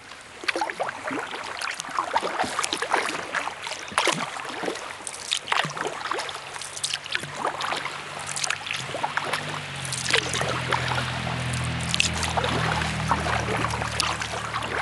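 Kayak paddle strokes: irregular splashes and water dripping off the blade. From about six seconds a low engine hum comes in, growing louder from about ten seconds.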